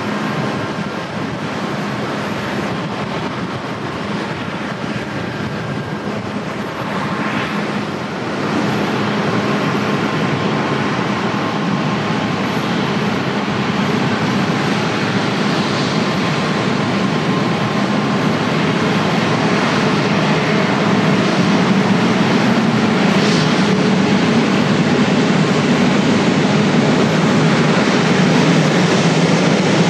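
Jet airliner engines at high power: a loud, steady rushing noise that steps up about eight seconds in and keeps slowly building.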